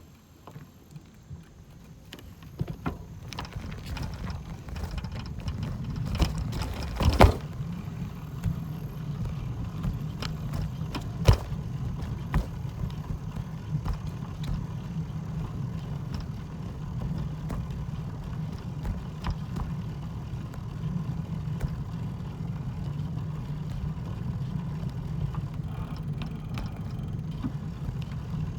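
A low, steady rumble that builds up over the first few seconds, with scattered knocks, two of them louder, about a third of the way in and again a few seconds later.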